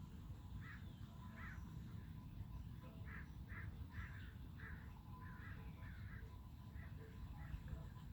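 A bird calling repeatedly: about ten short calls, spaced out at first and coming closer together from about three seconds in, over a steady low rumble.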